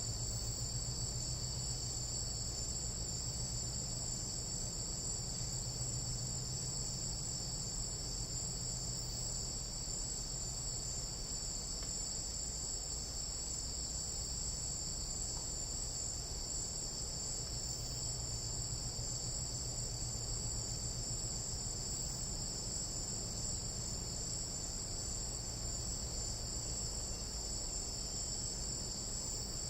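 Tropical night-time insect chorus: several insects trilling unbroken in high, overlapping pitches, with a low steady hum beneath.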